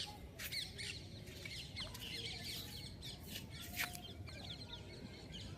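Birds calling in the background: many short, high chirps overlapping irregularly over faint background noise.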